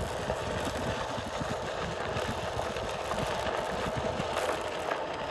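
Steady low rumble of a running engine, with a faint steady hum over it.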